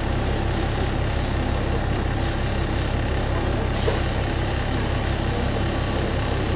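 Diesel railcar's engine idling with a steady low, pulsing rumble, heard from inside the passenger car while the train stands waiting to depart.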